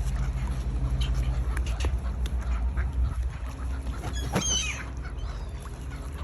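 Ducks quacking among other water-bird calls, with one louder, high call about four seconds in, over a steady low rumble.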